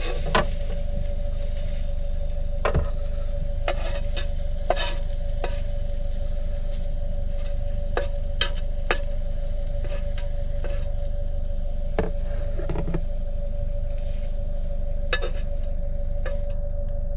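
Veggie burgers and mushrooms sizzling in a hot Ridge Monkey pan, with scattered clicks and scrapes of a plastic spatula working the food. A steady hum runs underneath.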